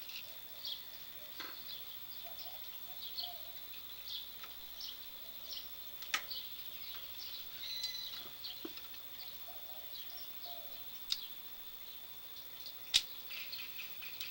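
Birds chirping in short, repeated high calls over a faint steady high tone, with three sharp clicks or knocks, the loudest near the end.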